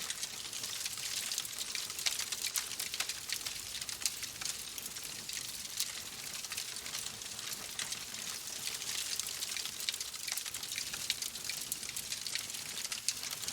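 Steady rain: an even hiss of falling rain with many small, sharp drop ticks scattered through it.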